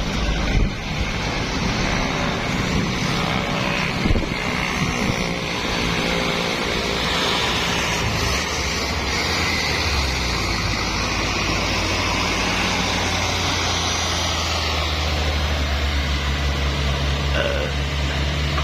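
Heavy diesel trucks' engines running on a mountain road grade, a steady low drone that grows heavier about ten seconds in.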